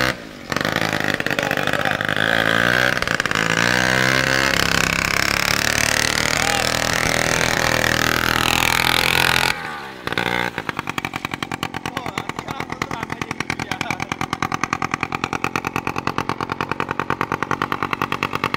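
Motorcycle engine running. After a short break about ten seconds in, it runs with a steady, rapid, even beat.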